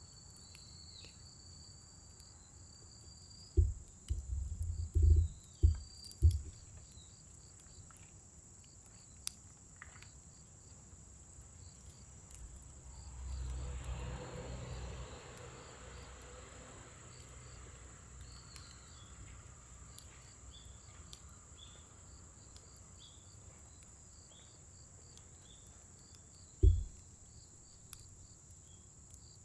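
Steady high trilling of crickets with short insect chirps over it. A cluster of loud low thumps comes about four to six seconds in, a low rushing swell rises and fades about halfway through, another single thump comes near the end, and a few faint clicks are scattered through.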